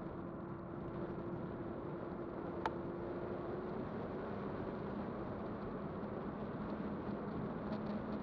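Kugoo Kirin V5 electric bike riding along: steady tyre and wind noise with a low, even motor hum, and one sharp click a little under three seconds in.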